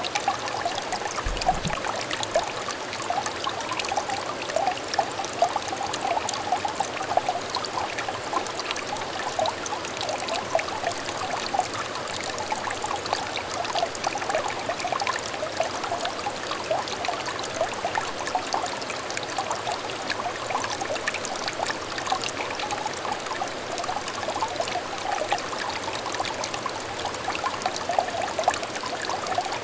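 Small stream trickling and babbling, a steady chorus of little splashes and gurgles.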